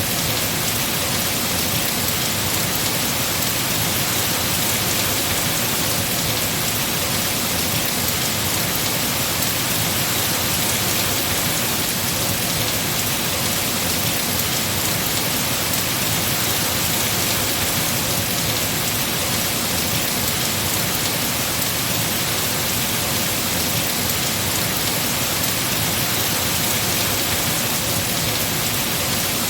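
Heavy rain falling on trees, a steady dense hiss with no breaks.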